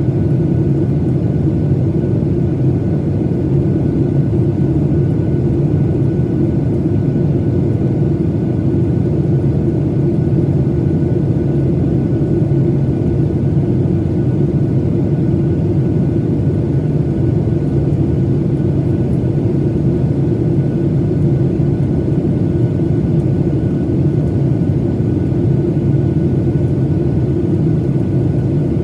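Steady cabin drone of a Boeing 737-900ER in flight: engine and airflow noise heard from inside the passenger cabin, deep and even, with a faint steady whine above it.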